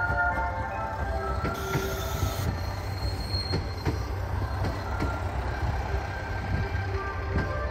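A KiHa 185-series diesel railcar train running slowly past along a station platform. There is a steady low rumble under it, repeated clicks of the wheels over the rail joints, and now and then a faint thin wheel squeal.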